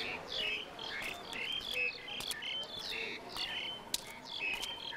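Birds chirping, with many short, quick calls overlapping throughout. A faint, steady pulsed trill joins about three and a half seconds in.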